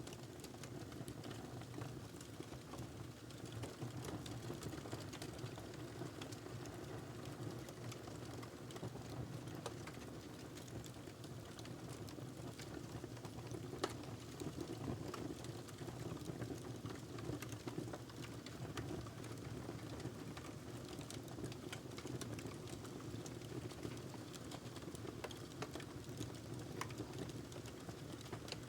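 Wood fire crackling in a fireplace: scattered small pops and snaps over a low, steady rumble of the flames, with one sharper pop about halfway through.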